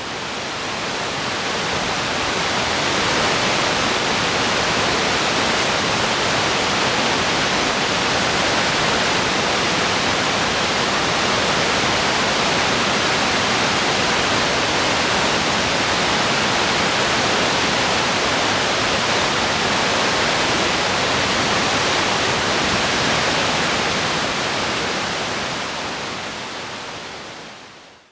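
Hagoromo Falls, a tall waterfall, rushing in a steady, loud roar of falling water; the sound fades in over the first few seconds and fades out near the end.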